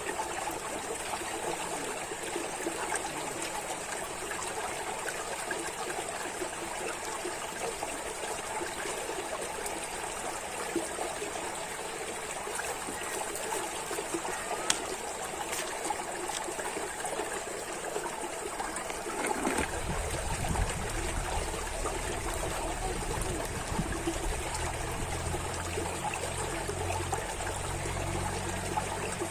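Water trickling steadily, like a small stream. About twenty seconds in, a low rumble joins underneath the flow.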